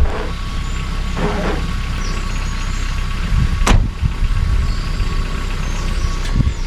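Car engine running steadily with a low rumble. A loud thump at the start and a single sharp click in the middle.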